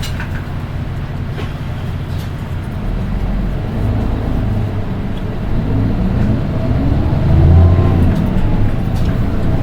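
Nissan Diesel Space Runner RM820 city bus's diesel engine heard from inside the cabin, pulling harder as the engine note grows louder from about three seconds in. A faint high-pitched whine rises and falls near the end. It is the shrill engine noise that sets this one bus apart from its three sister RM820s.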